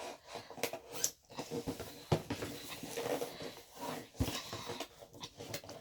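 Hands working at a cardboard box to get it open: irregular rustling and scraping with many small clicks, and two sharper knocks about two and four seconds in.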